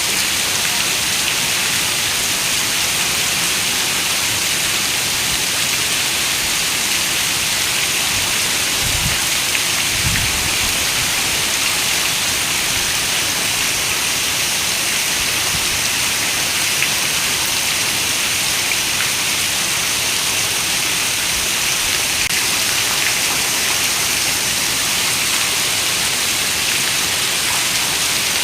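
Heavy rain on a window: a steady, dense hiss of raindrops. Two brief low rumbles come about nine and ten seconds in.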